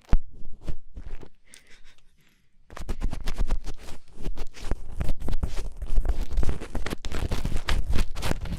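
Close-miked ASMR scratching and rubbing against the microphone: a few scattered scratches and taps at first, then dense, continuous crackling scratching from about three seconds in.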